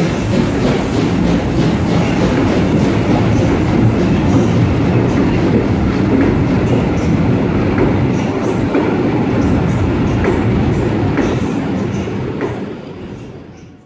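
Vintage passenger coaches rolling past on their way out of the station, wheels clacking over the rail joints over a steady rumble. The sound fades away near the end.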